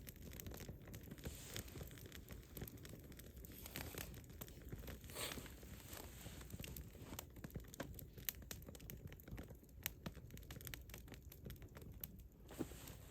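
Wood campfire crackling: many irregular sharp pops and snaps over a low, steady rustle of burning.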